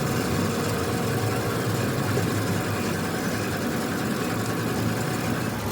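An engine idling steadily, an even low hum with no knocks or changes.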